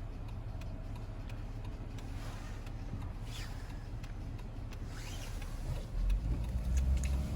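Steady low rumble of a Jeep driving, heard from inside the cabin, growing louder and deeper about six seconds in.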